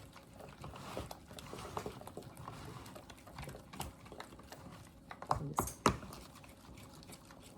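Kitchen utensils at work: a run of light, irregular clicks and scrapes of a spoon against a mixing bowl as cornbread batter is handled, with a couple of louder knocks a little past halfway.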